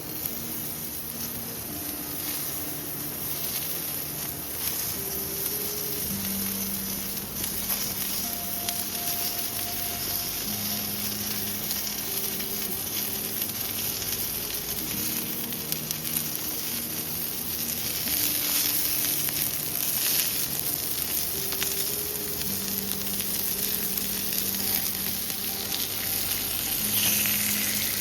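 Food sizzling in a hot pan, a dense steady hiss that gets a little louder about two-thirds of the way in.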